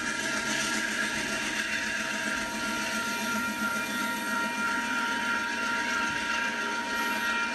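Steady mechanical whirring noise with two steady high-pitched whining tones.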